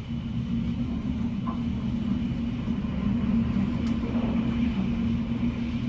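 Hurricane Irma's wind and rain blowing without a letup against the house, a steady low rumble heard from indoors behind a window.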